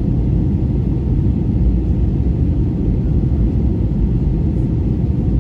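Airliner cabin noise in flight: a steady, even low rumble heard inside the cabin, with no change in level.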